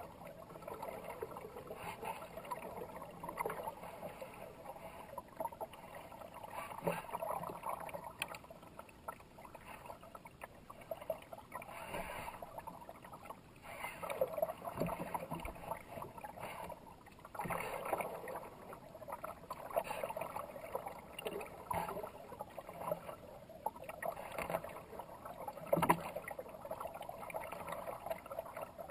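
Kayak paddling on a fast river: paddle blades splashing and water rushing past the hull, swelling and easing with each stroke about every two seconds. A few sharp knocks come through, the loudest near the end.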